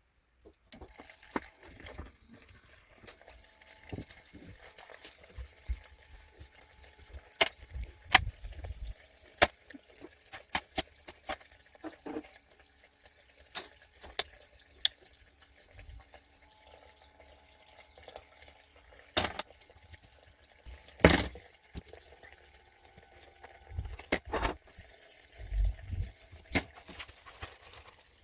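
Irregular clicks and light knocks of tools and small drill parts being handled, with a few duller thumps; no motor running.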